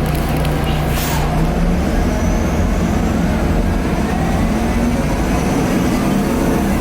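Inside a 2010 Nova Bus LFS articulated city bus under way: its Cummins ISL diesel is running with a steady low drone and a faint turbo whine that rises in pitch as the bus picks up speed. There is a brief hiss about a second in.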